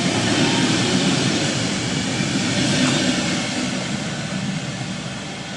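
Passenger coaches of a departing train rolling past on the rails, steady wheel and running noise that fades as the last coach pulls away in the second half.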